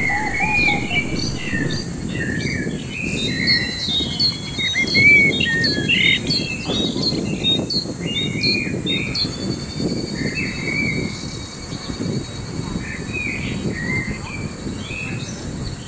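Several birds chirping and twittering in quick, overlapping calls, busiest in the first half, over a low steady background rumble.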